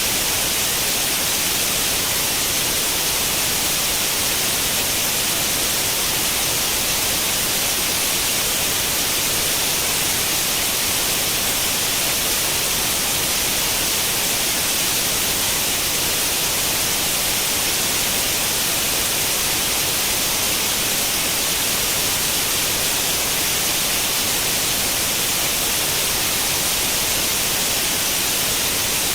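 Steady white-noise static like an old CRT television tuned to no channel: an even hiss, strongest in the high range, with no change in level.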